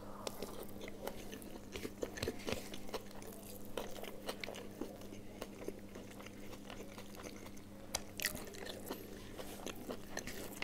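Close-up eating sounds: a person chewing a mouthful of khichuri and chicken curry eaten by hand, with irregular wet mouth clicks and the squish of fingers working the rice, a denser cluster of clicks about eight seconds in. A steady low hum runs underneath.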